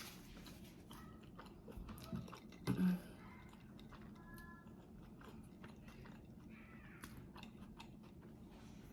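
A person chewing and biting food close to the microphone, soft wet mouth clicks and smacks, with a brief louder thump about three seconds in.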